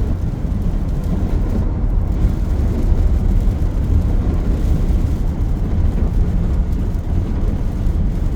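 Steady low rumbling roar of gusty thunderstorm wind buffeting a vehicle, with no separate bangs or claps.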